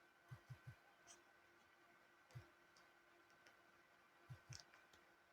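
Near silence with a few faint, scattered clicks and taps from typing a message.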